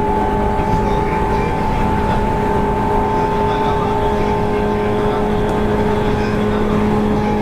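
Running sound inside a 185 series electric train's motor car (MoHa 184) at steady speed: an even rolling rumble with a steady hum and whine of the traction motors and gears, holding one pitch.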